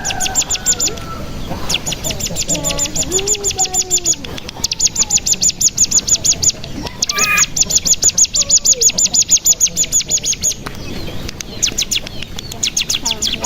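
Ciblek gunung (cigun) singing its 'bren': long, fast trills of sharp high notes, about ten a second, in three runs of two to three seconds each. Softer, lower sliding calls come between the runs, and the trill starts again near the end.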